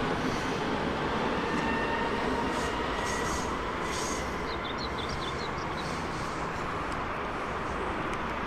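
A train moving through the station: a steady rumble and rush with faint, slowly shifting whining tones and a few brief high squeaks.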